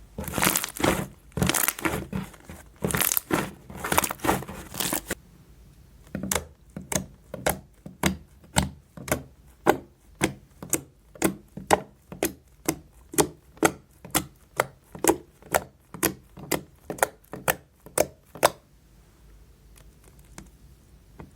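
Close-miked soap slime being handled: crackly squishing for about five seconds, then a steady run of sharp pops, about two a second, stopping a few seconds before the end.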